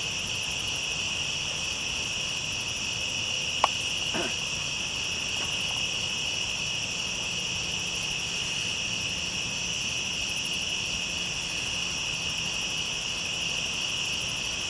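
Steady night chorus of crickets and other insects, a shrill trilling held at a few high pitches, with a single sharp click a little under four seconds in.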